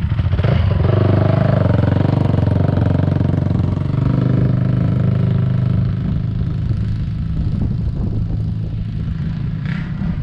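Honda CRF450R's single-cylinder four-stroke engine running loudly through an FMF full exhaust (header and pipe), which the owner believes has no spark arrestor. The engine is loudest through about the first half, then settles somewhat lower.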